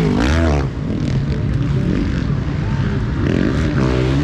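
Motocross bike engines revving, their pitch rising and falling. Near the end another bike accelerates with a rising pitch.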